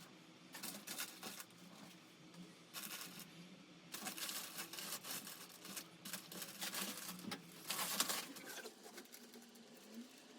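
Irregular rustling and scraping of upholstery material being handled, coming in uneven bursts, the loudest about eight seconds in.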